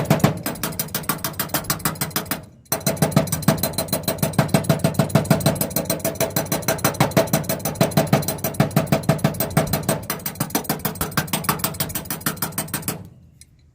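Rapid, evenly spaced hammer taps on a car's starter solenoid, about five a second with a ringing metal tone, pausing briefly about two and a half seconds in: a 'technical tap' to free a solenoid that is passing too little current to work the starter.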